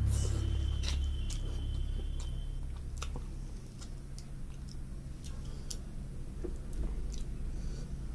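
Person chewing food with the mouth close to the microphone, with scattered small wet clicks and smacks, eating rice and curry by hand.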